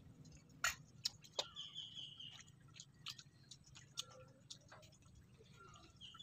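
Scattered mouth clicks and smacks of someone chewing soft boiled saba banana, the loudest about a second in. A bird gives a short high call about a second and a half in and again near the end.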